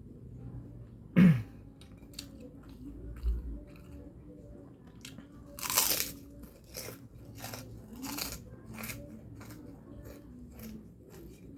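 Close-up sounds of a person eating egg noodles and rice: chewing with short wet clicks about two a second. A loud short sound about a second in and a louder noisy stretch about six seconds in stand out from the chewing.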